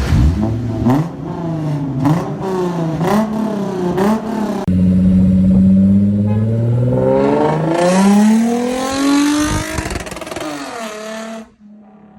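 Straight-piped Toyota Mark X V6 exhaust being revved: a run of quick throttle blips about two a second with sharp pops, then a long rev that climbs and falls back, dropping to a low idle near the end.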